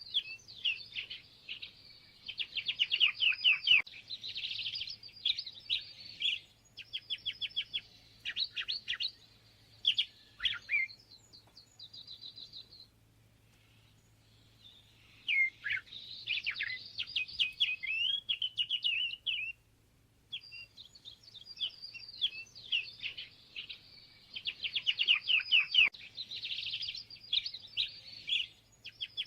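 Songbird singing long, rapid, jumbled strings of chirps, trills and whistled notes, broken by brief pauses about halfway through and again about two-thirds of the way in. A faint steady low hum lies underneath.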